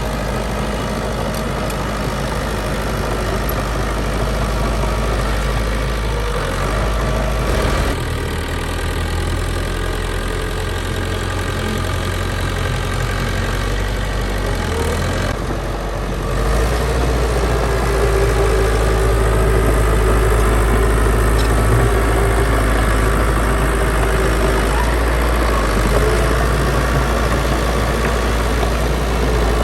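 Heavy diesel engine of earthmoving machinery running steadily, getting louder about sixteen seconds in.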